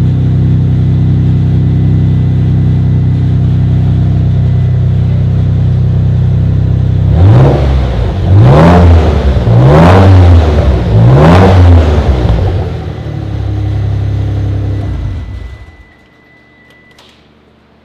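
1993 Mitsubishi 3000GT VR4's twin-turbo V6 running through a new Revel Medallion Touring-S catback exhaust. It idles steadily, is revved four times in quick succession, settles back to idle and then cuts off as the engine is shut down.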